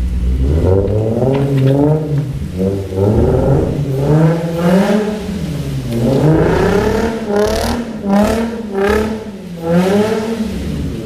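Infiniti G35's 3.5-litre V6 being revved hard during donuts, the engine pitch swinging up and down again and again as the throttle is worked.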